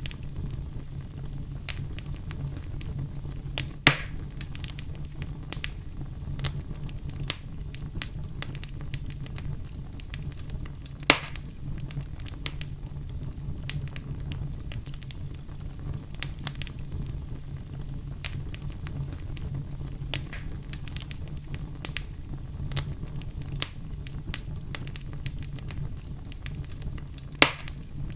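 Wood fire burning in a fireplace, with a steady low rumble and frequent small crackles. Three louder sharp pops stand out: about four seconds in, around eleven seconds, and near the end.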